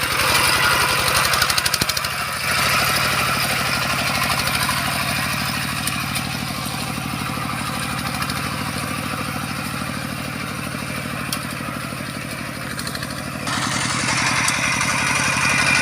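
Bulldozer's diesel engine running steadily with a rapid, even pulse. Its sound turns duller about two seconds in and brightens again near the end.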